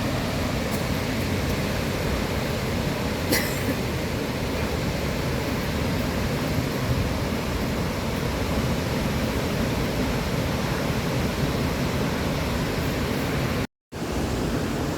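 Steady roar of the Victoria Falls waterfall, an even wash of rushing water without a break. There is one short click about three seconds in, and the sound drops out for a moment near the end.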